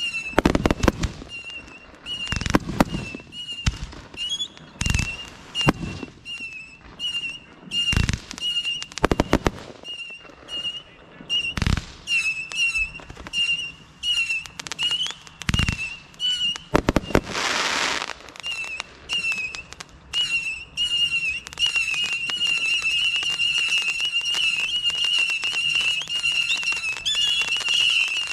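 Consumer fireworks going off: a string of sharp bangs, irregularly spaced over the first two-thirds, with a hissing rush lasting about a second near the middle. A high, wavering whistle runs underneath and grows stronger in the last third.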